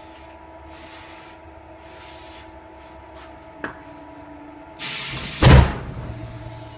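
Aerosol spray hissing in short bursts into a tire, a sharp click, then a loud rushing hiss and a heavy low boom about five seconds in: a low-profile 215/40 tire's bead being blown onto a 10J wheel rim by igniting flammable spray inside the tire.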